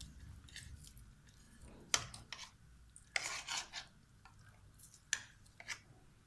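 Kitchen utensils clinking and scraping against cookware: a sharp clink about two seconds in and another about five seconds in, with a longer scrape a little after three seconds.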